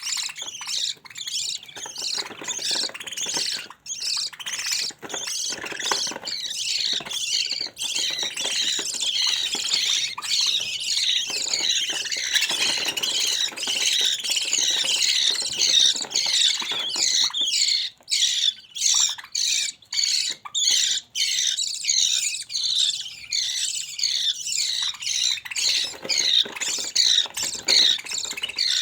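Budgerigar chicks calling: rapid, high-pitched squawking calls that run almost without pause, with a few short breaks about two-thirds of the way through.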